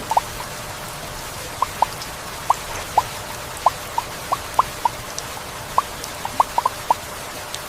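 Heavy rain falling steadily, an even hiss, with large drops landing in sharp, irregular plinks a few times a second.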